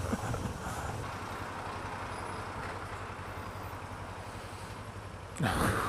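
Kawasaki ER-6f's parallel-twin engine running steadily at low revs in traffic, with a constant road and wind hiss. A louder, short burst of sound comes near the end.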